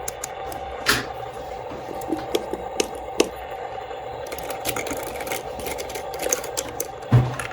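Scattered light clicks and knocks over a steady hum, the loudest knock near the end.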